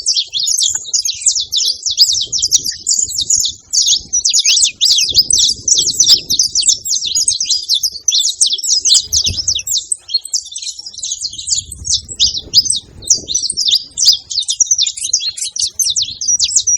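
Saffron finches chirping: a dense, unbroken stream of rapid high chirps, with a few soft low rumbles underneath.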